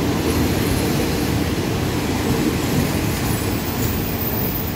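Passenger train carriages rolling steadily past a station platform, a continuous rumble of the train running on the rails.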